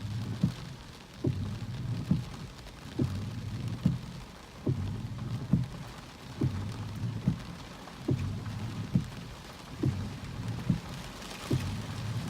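Storm wind and rain with a regular short knock, a little more than once a second, over a low rumble.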